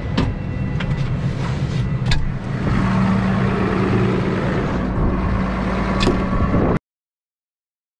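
Farm tractor's diesel engine running under load, with a steady low drone that grows stronger about two and a half seconds in and a few sharp knocks or clicks over it. The sound cuts off abruptly near the end.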